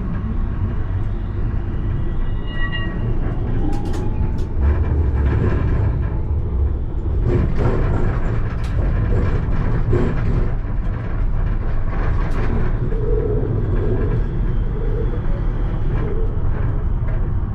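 Alstom Citadis tram running along the track, heard from the driver's cab: a steady low rumble of wheels on rails, with occasional sharp clicks and knocks. A brief rising whine comes about two to three seconds in.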